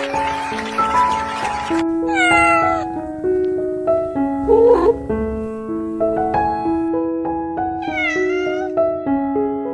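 Gentle keyboard music playing a simple melody, with a kitten meowing three times over it: a high falling meow about two seconds in, a shorter lower one around five seconds, and another high meow around eight seconds.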